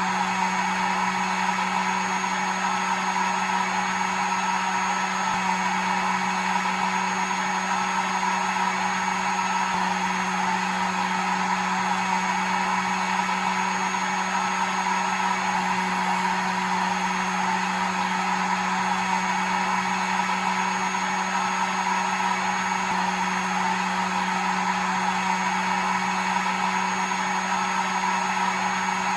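Hair dryer running steadily: an even blowing whir over a constant motor hum, with no change in speed or pitch.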